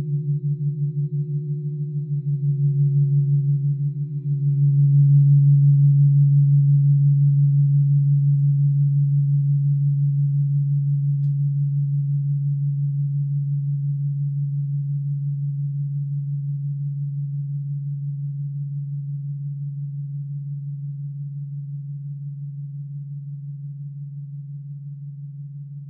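Low-pitched quartz crystal singing bowl sustaining a single pure tone with an even wobble. It swells twice in the first five seconds, then slowly fades as its higher overtones die away.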